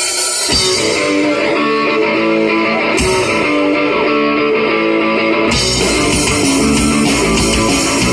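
Live rock band starting a fast song with a guitar riff over drums. There is a cymbal crash about three seconds in, and the full band comes in harder with bass and drums about five and a half seconds in.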